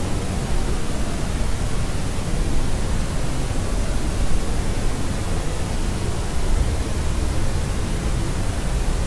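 Steady electronic white noise, weighted toward the low end like pink noise: an even hiss over a soft rumble that never changes.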